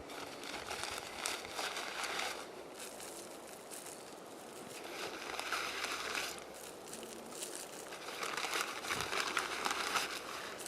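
Bursts of crackling and rustling over dry ground, each about two seconds long and coming every three to four seconds, as pellets are scattered by hand over a plot.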